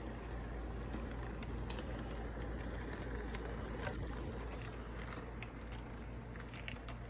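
Intermodal freight train running, a steady low rumble with scattered sharp clicks and knocks.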